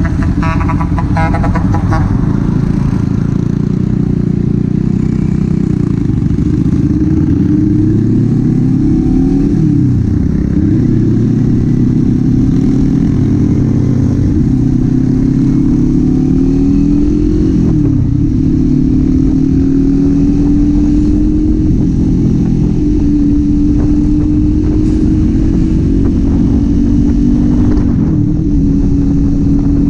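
Kawasaki Z400's parallel-twin engine and exhaust under way. The engine note holds and slowly climbs, then dips sharply and climbs again three times, about ten seconds in, near the middle and near the end, as it shifts gear.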